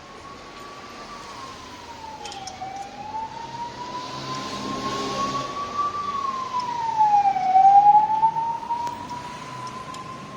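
An emergency-vehicle siren with a slow wail, the pitch gliding up and then down twice. It grows louder to a peak about three-quarters of the way through, then begins to fade, like a vehicle passing by.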